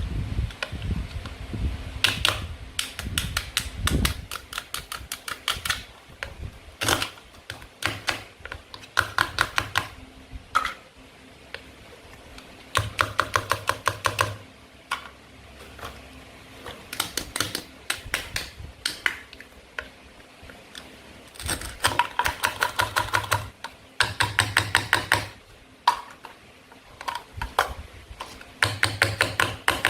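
Rapid runs of small plastic clicks from toy play food being handled and cut, about ten a second, in bursts of one to two seconds with short pauses between.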